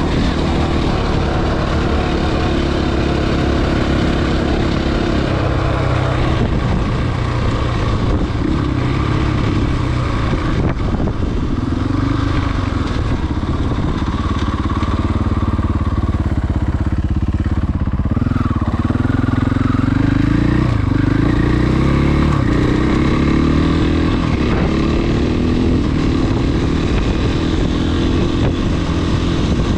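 Husqvarna FE 501s single-cylinder four-stroke dirt bike engine running while riding, its revs rising and falling with the throttle, with several climbs in pitch after about eighteen seconds.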